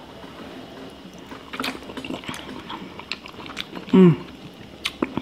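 Close-miked chewing of seafood meat in a mukbang, with wet mouth sounds and sharp smacking clicks. About four seconds in there is a short hummed "mm" that falls in pitch.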